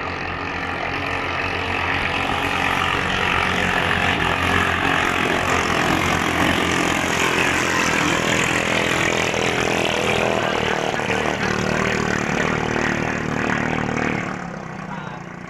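Small petrol engine of a ketinting racing longtail boat running flat out. It grows louder over the first few seconds, holds steady, then drops away sharply near the end.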